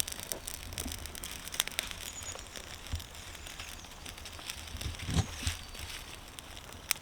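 Newly lit campfire of birch twigs crackling, with irregular sharp pops and a louder cluster of them about five seconds in.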